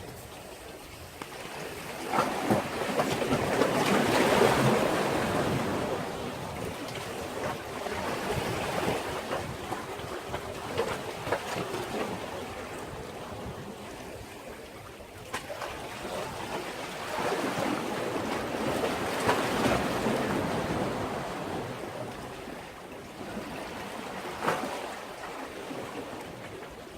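Sea waves breaking and washing in, in slow swells. They build to a peak about four seconds in and again around twenty seconds in, with a few short, sharp splashes.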